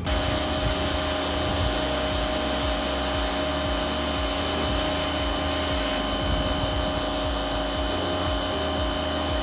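A steady electric motor whine over a loud rushing hiss, starting and stopping abruptly and holding an even pitch throughout.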